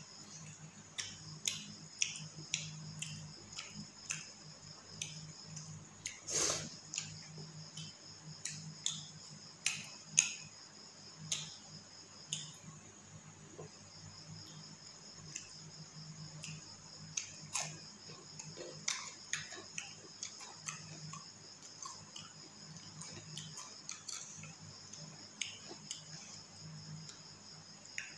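Close-up eating sounds: irregular wet clicks and lip smacks of chewing and of fingers mixing rice with curry, one louder smack about six seconds in. Behind them runs a steady high pulsing trill and a low hum.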